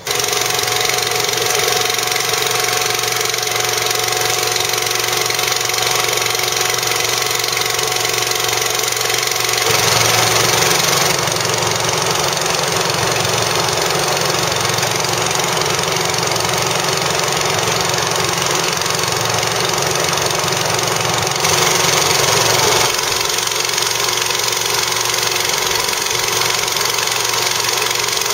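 An engine running steadily at a constant speed, loud and close. Its note changes about ten seconds in and changes back a few seconds before the end.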